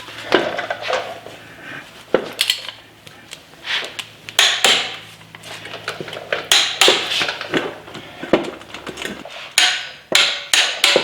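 Wrench and socket clicking and clinking on steel as the wheel bearing's mounting bolts are tightened, in irregular sharp metallic clicks.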